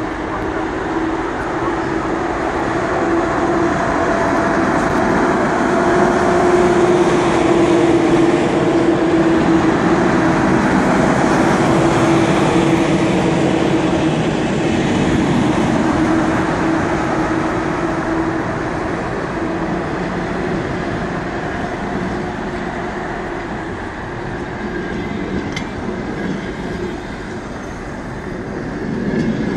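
Passenger train pulling out behind a ChS7 electric locomotive, its coaches rolling past slowly with the wheels running on the rails. A steady low hum is strongest in the first half and fades out past the middle as the locomotive moves away.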